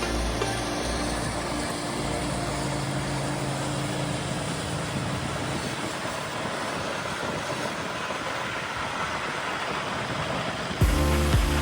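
Truck on the road: a steady rush of engine and road noise. About eleven seconds in it cuts suddenly to a louder sound with strong low tones.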